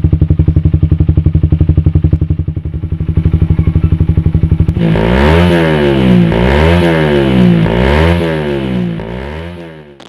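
Suzuki Satria FU's single-cylinder four-stroke engine running through an aftermarket racing exhaust, idling with a rapid, even pulse. About halfway in it is revved up and down several times in a row, and it dies down near the end.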